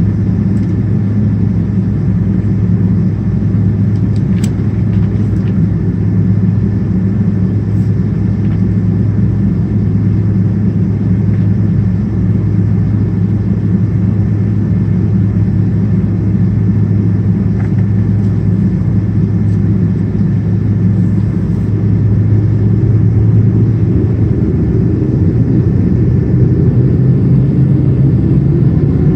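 Steady loud cabin roar of a Boeing 777-200ER, its two GE90 engines and the airflow heard from inside the cabin. It grows louder about two-thirds of the way in, and a rising whine begins near the end.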